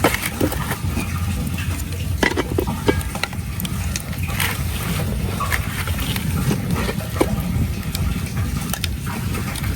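Cooking sounds: food frying in a pan, with utensils stirring and clicking against it, over a steady low rumble.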